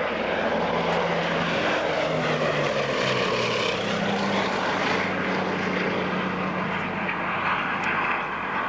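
A Bristol Blenheim's twin radial piston engines and propellers running loud and steady, the engine note shifting lower about two to three seconds in.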